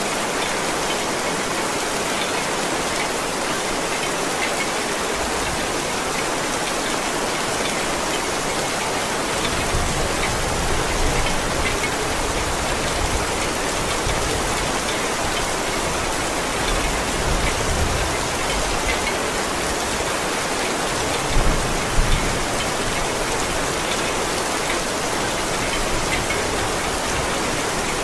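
Heavy rain falling steadily, a dense even patter. Low rumbling swells come and go, and two short low thumps stand out about three-quarters of the way through.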